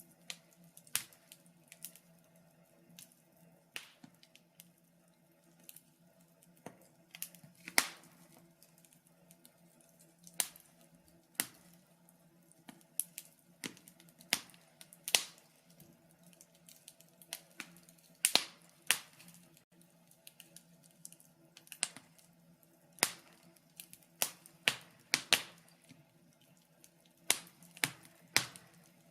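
Wood fire in a fireplace crackling: irregular sharp pops and snaps, a few a second and some much louder than others, over a faint steady low hum.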